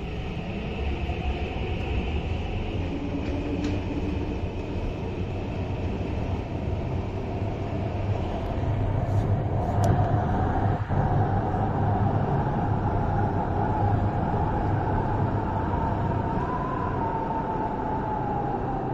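MTR East Rail Line R-Train electric multiple unit running, its traction motors whining in a slowly rising and falling pitch over a low rumble; it grows louder about halfway through.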